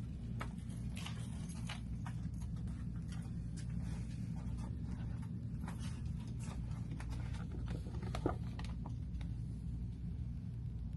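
Steady low hum of an indoor room with scattered faint clicks and taps, the sharpest about eight seconds in.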